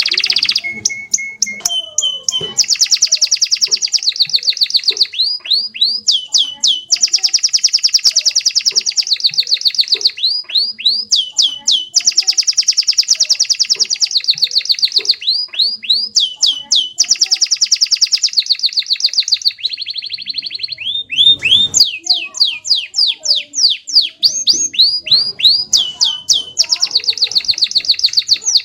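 Domestic canary singing a long song of rapid rolling trills, each run held for a couple of seconds or more, broken by quick falling swoop notes.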